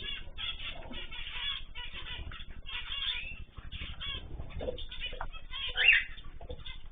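A mixed flock of cage birds (cockatiels, zebra finches, canaries and goldfinches) chirping and calling together without pause. One louder, rising call stands out near the end.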